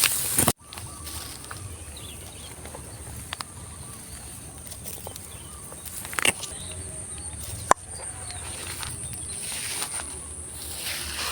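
Quiet outdoor ambience with a steady high-pitched hum and faint distant bird calls, after a loud rubbing noise cuts off abruptly about half a second in. Two sharp clicks come about six and eight seconds in.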